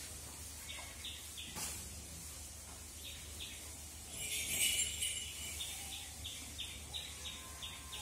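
Small birds chirping: runs of short, evenly spaced chirps, about three a second, with a louder burst of twittering about halfway through, over a steady low hum.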